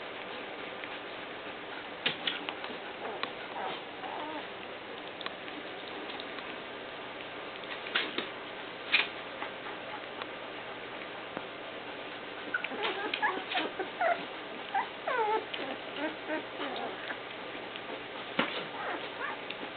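Puppies almost three weeks old squeaking and whimpering in short, scattered cries over a steady background hiss, with a busier run of cries in the second half.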